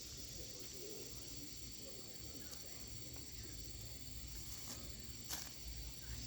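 Insects chirring steadily in a high, even tone, with faint rustling and a single sharp knock about five seconds in.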